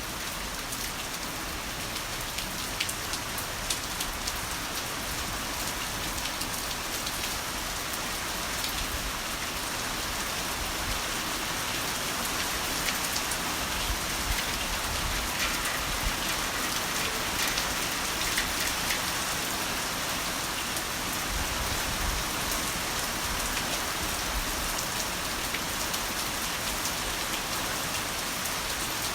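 Heavy rain falling steadily, a dense hiss with many separate drops hitting close by.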